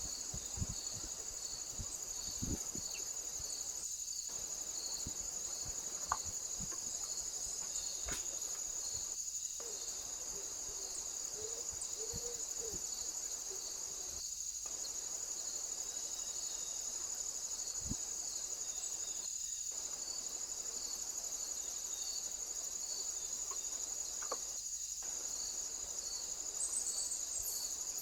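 Chorus of crickets or similar insects: a steady high trilling over a lower, pulsing trill, broken by short dropouts every few seconds, with a few faint soft knocks.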